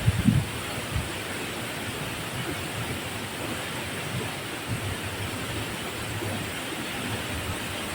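Waterfall rushing steadily, an even hiss over a low rumble, with a few short low thumps right at the start.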